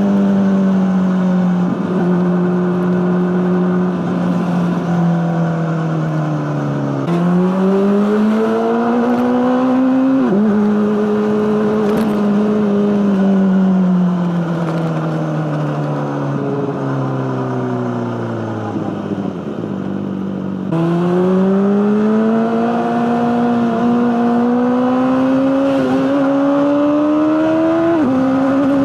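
Honda CBR600RR inline-four engine through an Akrapovic exhaust, its revs rising and falling. The revs sink for several seconds, pick up about seven seconds in, then fall away slowly to a low point. They climb again with a sudden louder pick-up about twenty seconds in, and drop sharply near the end like a gear change.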